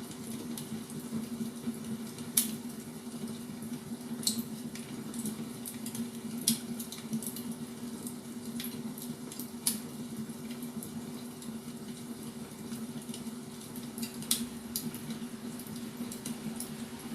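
Wood fire crackling, with sharp pops every few seconds over a steady low hum.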